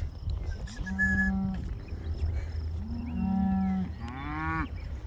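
Cattle mooing: a short, even moo about a second in, then a longer one that rises and falls in pitch toward its end.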